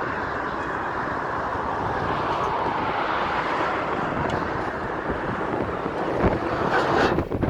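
Steady road and wind noise from a moving car, with a brief dip in level just before the end.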